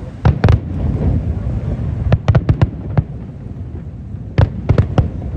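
Fireworks display: sharp bangs in quick clusters over a steady low rumble. Two come just after the start, four or five come close together about two seconds in, and another group comes near the end.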